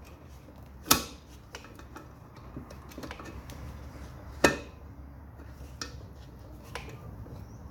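Metal tools working on a lawn mower's blade bolt: two sharp metallic knocks, about three and a half seconds apart, with lighter clinks and clicks between.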